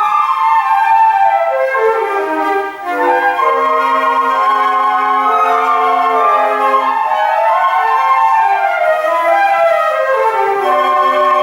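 A flute ensemble playing in several parts: held notes in the lower voices under moving upper lines, with quick falling runs about two seconds in and again near the end.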